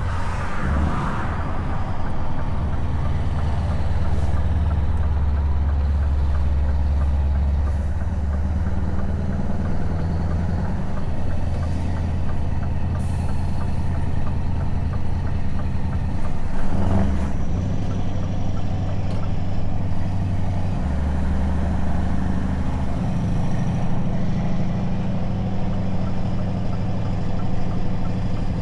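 Scania S truck engine running under way through open, unsilenced exhaust pipes, a steady deep drone whose note shifts several times.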